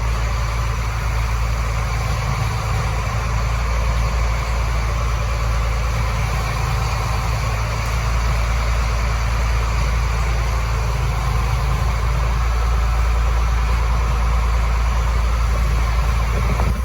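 Feed mixer wagon running steadily, churning a batch of cattle feed, with the engine that drives it droning without a break.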